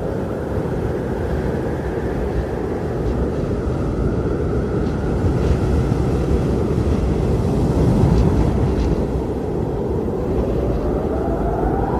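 Blizzard wind blowing hard: a heavy low rumble of gusts, swelling about two-thirds of the way through, with a howling whistle that rises in pitch near the end.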